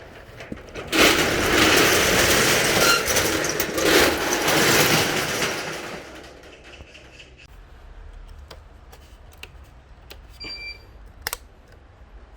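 A metal shop door rattling loudly as it is opened, a dense clatter lasting about five seconds, then a few light clicks and knocks.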